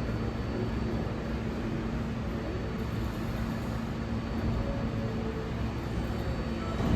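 Steady subway station background noise: a constant low hum over an even rumble, with a faint high steady tone.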